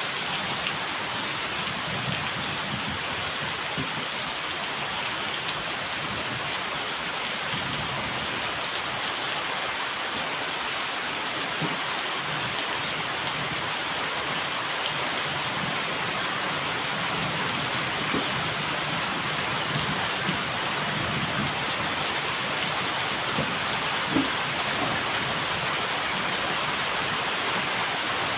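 Steady heavy rain falling on a surface, with a few louder drop ticks and low rumbles of distant thunder now and then.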